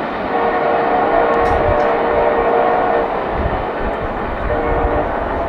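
Locomotive air horn sounding a long held chord, then starting again about a second and a half after it stops, over the low rumble of a pair of EMD diesel road-switchers, a GP39-2 and a GP38-2.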